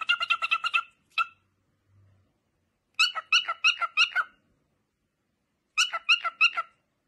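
Cockatiel chirping in quick runs of short repeated notes, about eight to ten a second. There are three runs of about a second each, with a single note after the first.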